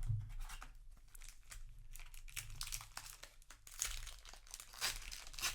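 Foil booster-pack wrapper crinkling and crackling as it is handled, in irregular bursts, with a few louder crackles about four and five seconds in and at the end.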